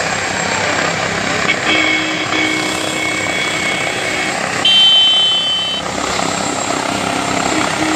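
Helicopter running with a loud, steady rotor and engine noise. A high-pitched tone sounds over it about a second and a half in, lasting about three seconds, and a louder one follows near the five-second mark for about a second.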